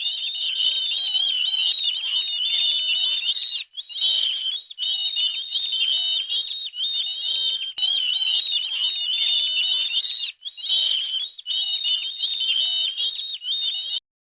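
Many small birds chirping and peeping at once, a dense high-pitched chatter of overlapping short notes, broken twice by brief gaps.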